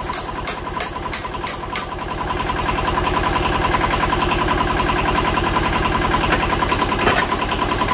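Tractor engine running steadily while driving the hydraulics of a homemade log-splitter axe, with a steady whine on top. About six sharp clicks come in the first two seconds, and the engine note rises a little after that.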